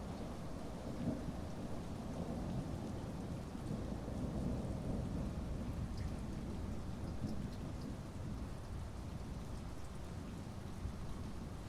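Heavy rain falling steadily with a low, rolling rumble of thunder underneath, easing off slightly in the first second; a few scattered drops tick above the hiss.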